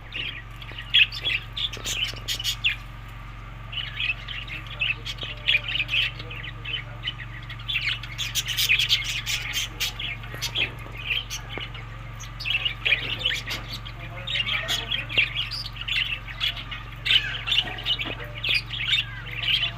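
A flock of budgerigars chattering, with many short overlapping chirps and squawks that rise and fall in busy clusters, over a steady low hum.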